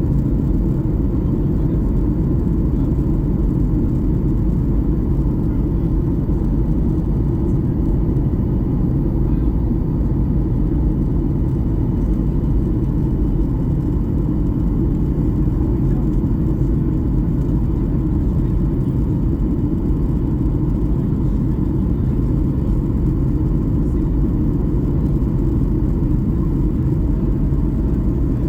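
Steady rumble of a Boeing 737 MAX-8 airliner in flight, heard inside the passenger cabin: its CFM LEAP-1B engines and the airflow make a constant low noise that does not change.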